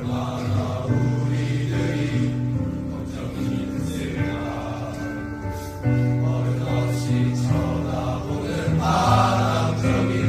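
A choir singing a song, with held notes over instrumental accompaniment.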